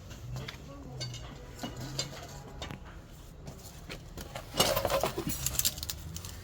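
Small metal objects clinking and rattling, with scattered light clicks and a louder burst of clinks about four and a half seconds in.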